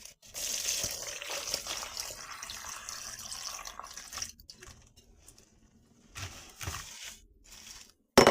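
Soaked tamarind water pouring through a strainer into a bowl for about four seconds. A few softer handling sounds follow, then a sharp knock near the end.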